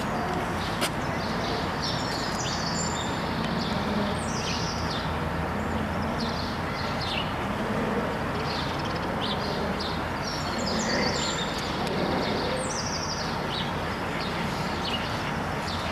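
Small birds chirping repeatedly in short, high calls over a steady background hum.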